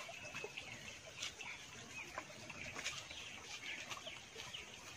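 Faint bird calls: short calls come and go at irregular intervals, over a quiet outdoor background.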